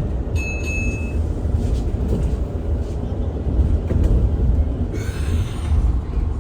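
Cabin ride noise of a BYD B12 bus on the move: a steady low rumble of road and running noise. A short high beep sounds about half a second in.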